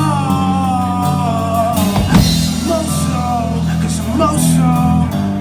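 Live rock band playing between sung lines. There are drums and bass under a sliding lead line, with a loud cymbal crash about two seconds in.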